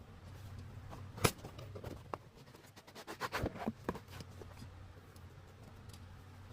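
Small close-up handling sounds: scattered light clicks and taps with bouts of scratching or rustling, one sharp click about a second in and a busier cluster around the middle, over a steady low hum.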